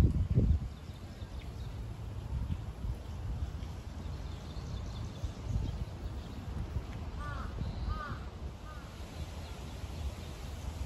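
A steady low outdoor rumble with a loud thump right at the start. About two-thirds of the way in, a bird gives three short calls.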